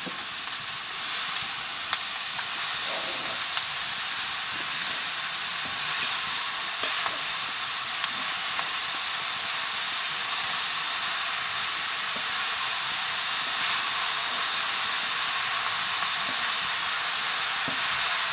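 Chopped mushrooms sizzling steadily as they fry in a black pan over a wood fire, stirred with a wooden spatula, with a few faint clicks of the spatula against the pan.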